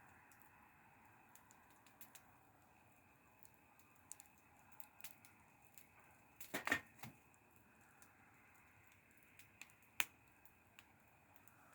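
Wood fire crackling quietly, with scattered small pops, a louder cluster of cracks a little past the middle and one sharp pop about ten seconds in.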